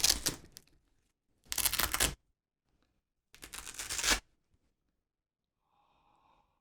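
Packaging being handled during an unboxing: three short bursts of rustling and tearing, like paper or plastic wrapping being pulled about.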